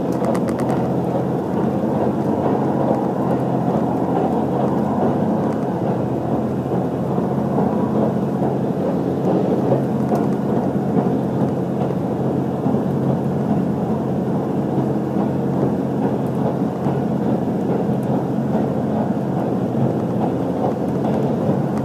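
Steady running noise inside the cabin of an HC85 series hybrid train at speed: a continuous deep rumble of wheels on rail with a low, even hum underneath.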